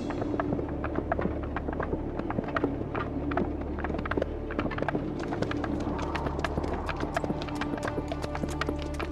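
Hooves clip-clopping, many overlapping irregular steps as animals walk along, over background music with low sustained tones.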